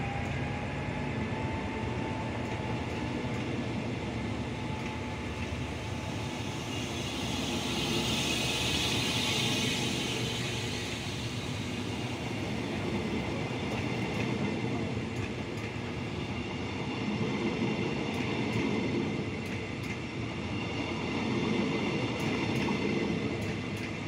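Passenger coaches of an express train rolling past on the track, a steady rumble of wheels on rails that swells and eases, with a hissing rise about eight to ten seconds in.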